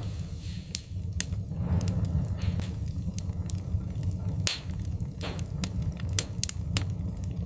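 Wood fire crackling, with irregular sharp pops from the burning logs, the loudest about four and a half seconds in. Short hisses and a steady low rumble of the flames run underneath.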